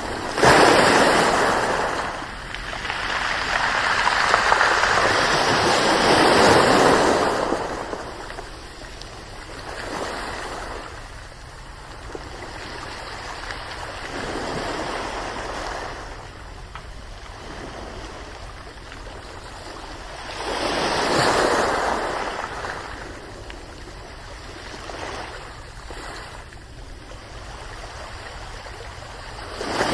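Ocean surf: waves breaking and washing in slow surges, a loud one right at the start, a long swell a few seconds in and another about two-thirds of the way through, with quieter wash between.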